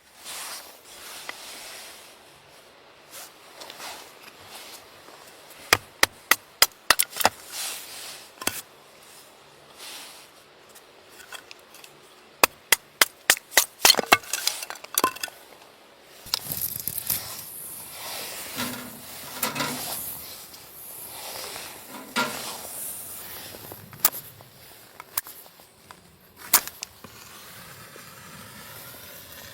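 A series of sharp knocks in quick clusters, then from about halfway a steadier rustling noise with occasional knocks.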